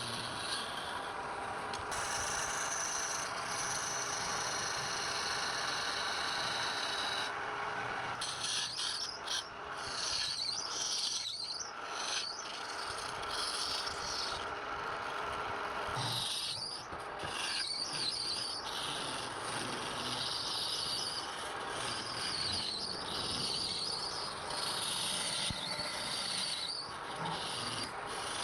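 Wood being worked on a lathe: a tool or sandpaper rubbing on the spinning wood, a steady rasping noise that changes abruptly a few times.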